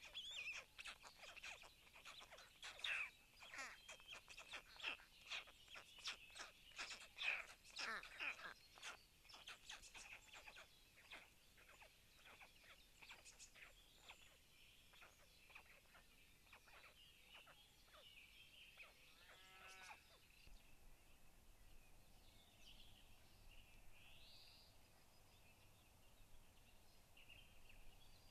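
Faint outdoor ambience with small birds chirping and calling. A quick, busy run of clicks and chirps fills roughly the first twelve seconds, then it thins to a quiet background with only occasional calls.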